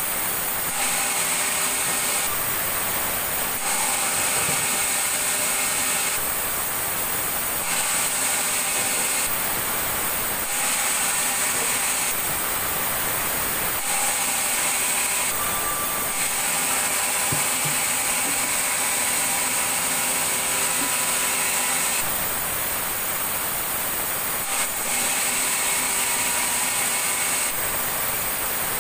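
Sawmill saw running and cutting wood: a steady mechanical hum with a high hissing whine that comes and goes every couple of seconds.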